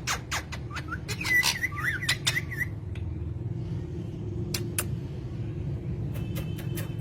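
A bird giving a short warbling chirp about a second in, among scattered sharp clicks, over a steady low hum.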